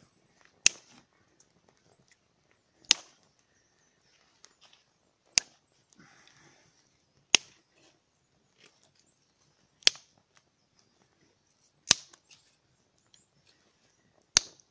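Fire steel being struck to throw sparks: seven sharp strikes at a steady pace, about one every two and a half seconds.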